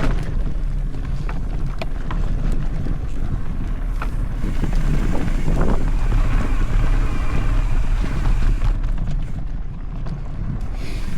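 Wind rushing over the microphone of a camera on a mountain bike being ridden along a dirt trail, with scattered clicks and rattles from the bike.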